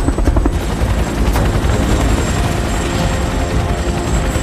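Helicopter in flight: a steady, rapid rotor beat with engine noise.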